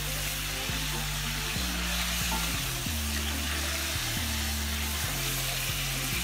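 Chicken pieces sizzling steadily in hot oil in a steel pot as they are stirred and turned with a wooden spatula. Background music with low held notes plays underneath.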